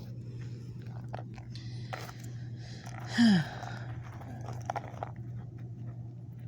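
Dirt crunching and scraping in short strokes as it is dug away, over a steady low hum. About three seconds in comes a brief, louder cry that falls in pitch.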